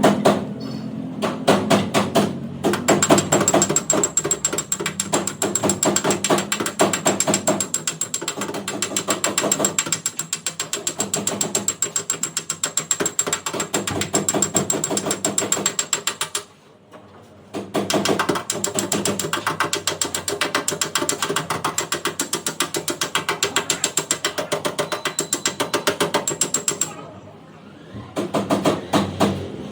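Rapid, even mechanical clicking, many clicks a second, stopping briefly twice.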